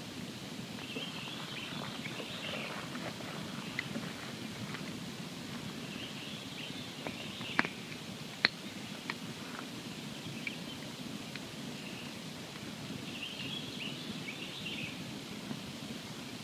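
Wood campfire burning with a steady crackle and hiss, scattered small ticks, and two sharp pops about a second apart near the middle.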